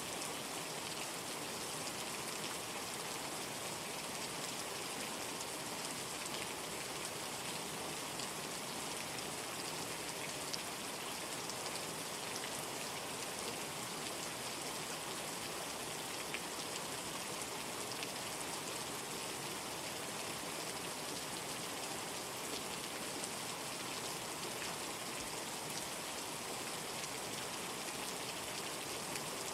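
Steady heavy rain, an even hiss with scattered drop ticks.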